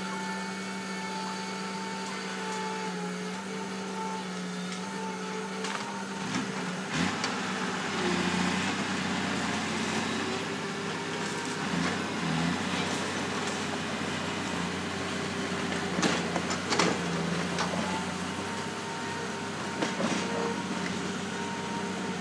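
Heavy earthmoving machine's diesel engine running steadily, its note shifting under changing load about seven seconds in. Several sharp metallic knocks and clanks come through near the middle and again near the end.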